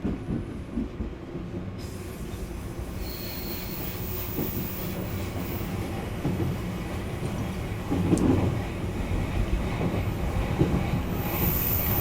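Odakyu electric commuter train running on the track: a steady low rumble of wheels on rail with a few clicks, growing gradually louder.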